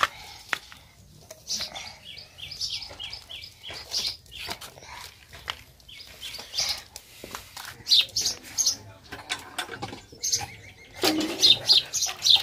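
Small birds chirping in short high calls, including a quick run of about four chirps a second around two seconds in, over scattered light clicks.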